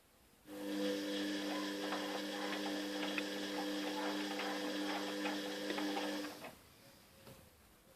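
Fagor washing machine running for about six seconds, a steady motor hum with light clicks, starting and stopping abruptly.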